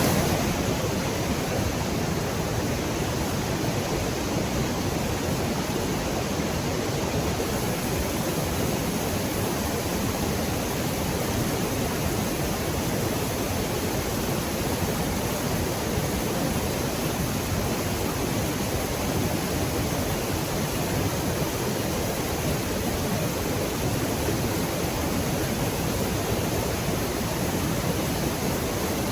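Waterfall running, a constant, even rush of falling water.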